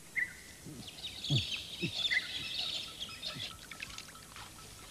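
Natural outdoor ambience: birds chirping and calling in short high notes, with a few low, falling calls and light scratchy rustling in dry vegetation.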